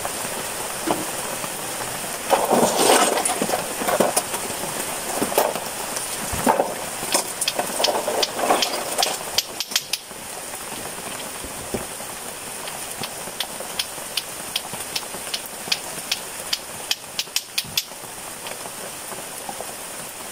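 Steady rain falling on a surface, with many sharp drip-like clicks throughout.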